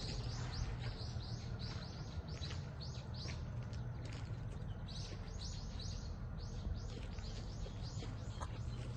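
Birds chirping in a rapid run of short, high calls, about three a second, with a brief pause about four seconds in, over a steady low background rumble.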